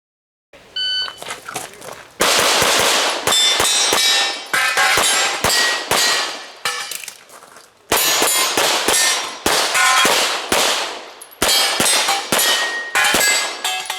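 Rapid gunshots fired in quick strings, many followed at once by the ringing clang of steel targets being hit. There are four main bursts of fire with short pauses between them.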